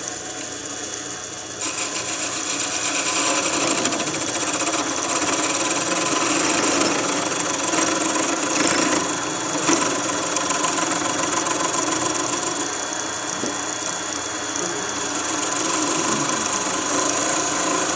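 Wood lathe running while a turning tool cuts into the spinning wood, thinning a small stem; a steady cutting hiss over the lathe's hum, louder from about two seconds in as the tool bites.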